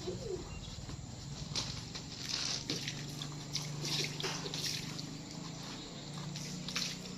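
Hand-washing a scooter: scattered short wet wiping and splashing sounds from a soapy cloth and water, over a steady low hum.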